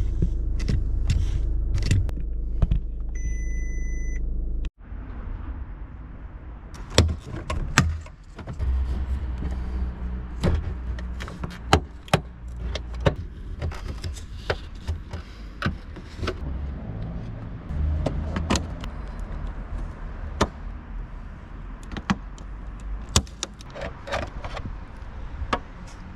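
A car's engine running with a steady low rumble and a short electronic beep. After an abrupt cut come scattered sharp clicks and knocks, like plastic trim clips and small parts being handled while the central brake light is taken out and replaced.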